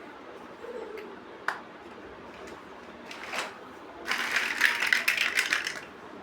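Plastic building bricks clicking and clattering: one sharp click about a second and a half in, a short rustle, then a dense clatter of many small clicks for about two seconds near the end.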